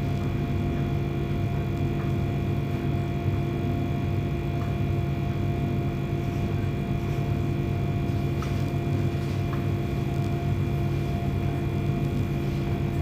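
Machinery running steadily: a constant hum with several held tones and no change in speed.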